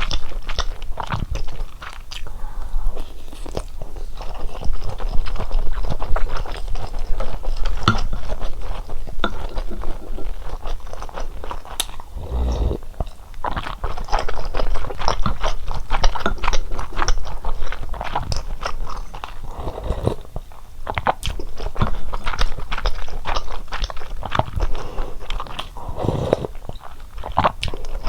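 Close-miked chewing and biting of fish cakes from a fish cake soup, a dense run of small irregular crunching clicks.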